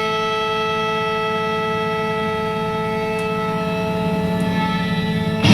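Fender Stratocaster electric guitar through a BOSS Katana amp holding one steady, horn-like note. It sounds much like a siren, with a low hum beneath it. A sudden noisy burst cuts in at the very end.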